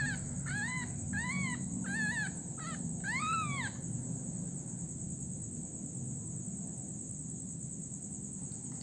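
A young animal cries six times in quick succession, each cry rising and falling in pitch, over about the first four seconds. A steady high insect drone runs underneath.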